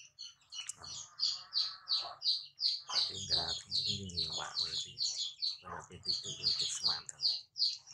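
Small birds chirping in quick, short, high notes, about three or four a second without a break, with a lower muffled sound underneath near the middle.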